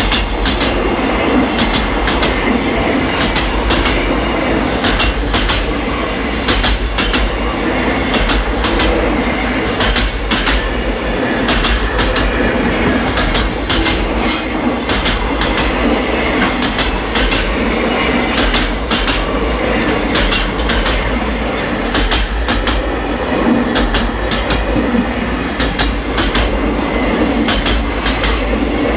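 Freight train of Koki 104 container flat wagons rolling past: a steady rumble of wheels on rail, with repeated clicks and intermittent high-pitched wheel squeal.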